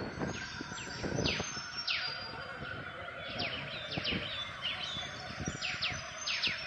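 Birds calling: many short notes that each sweep steeply down in pitch, overlapping and repeating throughout, over a faint steady hum.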